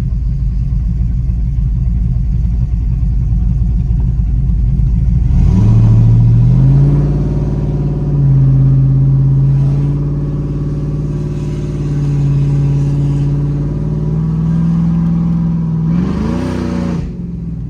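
Cammed truck engine with its muffler cut off, exhaust running through high-flow cats and an X-pipe: a loud, lumpy idle, then about five seconds in the revs rise and are held higher with small ups and downs, with a short rise and fall near the end.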